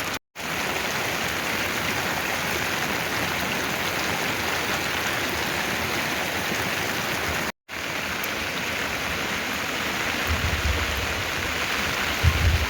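Steady water noise, a fairly loud even rush, broken by two very short gaps of silence, one just after the start and one about seven and a half seconds in. Low rumbling thumps come in near the end.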